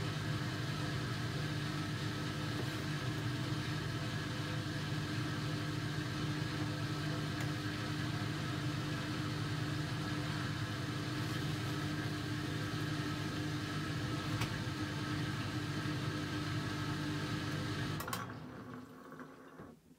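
AEG Lavamat 1400 washing machine running with a steady motor hum, which stops about two seconds before the end and dies away to near silence.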